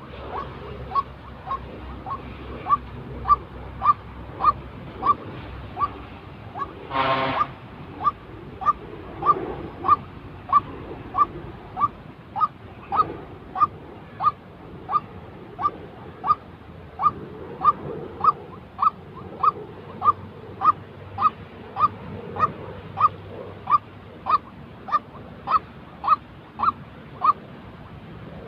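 White-breasted waterhen calling: a steady series of short, slightly rising notes repeated about twice a second. One harsh, buzzy sound cuts in briefly about seven seconds in.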